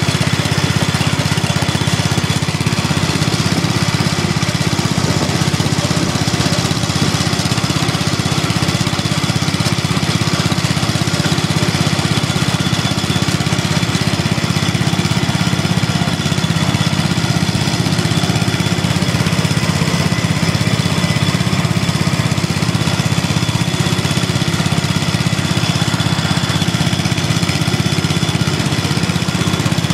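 Small single-cylinder lawn and garden tractor engines running steadily, with a faint high steady whine over the engine noise.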